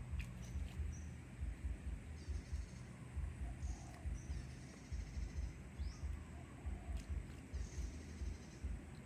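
Short, high chirping trills from a small animal, one every second or two, over an irregular low rumble.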